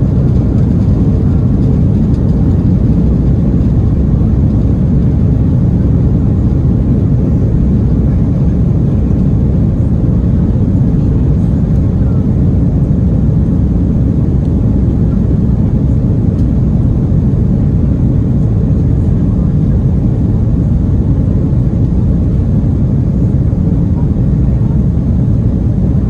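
Steady, loud, low rumble of an Airbus A330-300 airliner's jet engines and rushing air, heard inside the passenger cabin.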